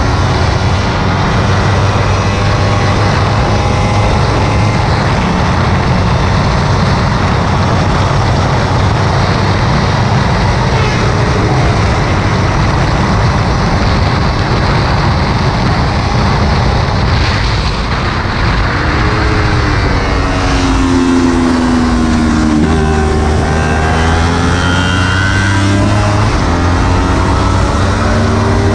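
Kawasaki Ninja 300's parallel-twin engine running hard on track, heard from a bike-mounted camera under heavy wind rush. About two-thirds of the way through, the revs drop sharply, then climb again as the bike accelerates.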